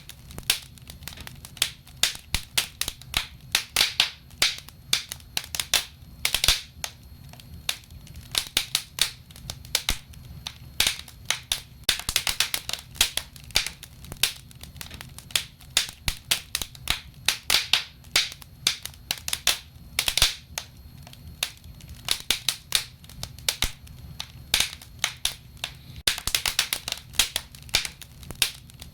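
Wood fire burning in a fireplace: dense, irregular crackling and popping, with louder clusters of sharp snaps every few seconds, over a steady low rumble.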